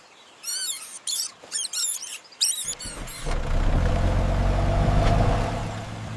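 High-pitched squeaky monkey chattering for about two and a half seconds, then a vehicle engine starts up and runs steadily as the vehicle moves off.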